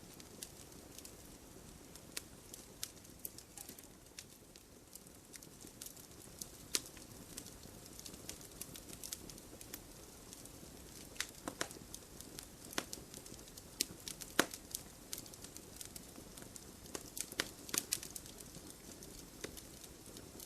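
Open wood fire crackling: irregular sharp pops and snaps over a soft steady hiss of burning, with a few louder pops.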